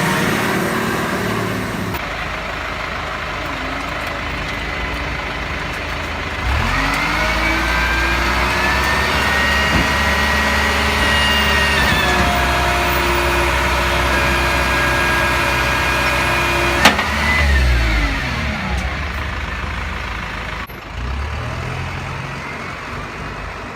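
Garbage truck's diesel engine running, revving up about six seconds in and holding at high revs for some ten seconds. Near the end it gives a sharp click and the engine falls back to idle.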